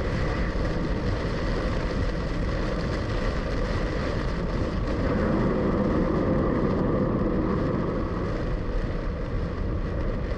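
Steady road and engine noise inside a moving car's cabin, swelling a little about five seconds in.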